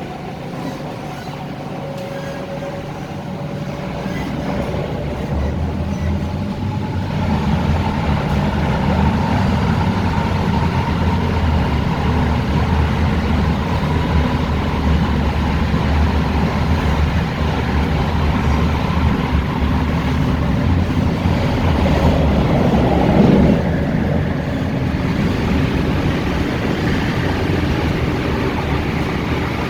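MTR Tung Chung Line K-stock electric train running between stations: a steady rumble of wheels and running gear that grows louder over the first several seconds as the train picks up speed, with a brief louder swell later on.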